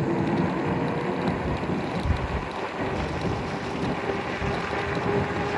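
Wind rushing and buffeting over the microphone of a moving e-bike, a steady low rumble with a faint constant tone underneath.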